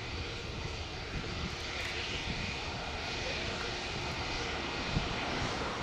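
Airbus A320's IAE V2500 turbofan engines running, a steady rumble and hiss, with one short knock about five seconds in.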